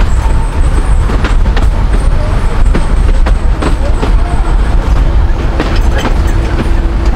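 Narrow-gauge passenger train running along the track, its wheels clicking over the rail joints, with heavy low wind rumble on a microphone held out of the window. A steady tone joins near the end as the train nears a station.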